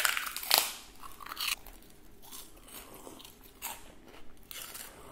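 Prawn crackers being bitten and chewed close to the microphone: a couple of loud crisp crunches at the start, then scattered softer crunches of chewing.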